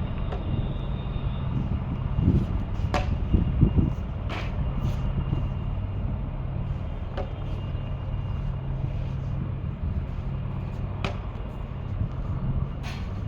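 A steady low engine rumble from military aircraft or vehicles, louder over the first few seconds, with a few sharp clicks.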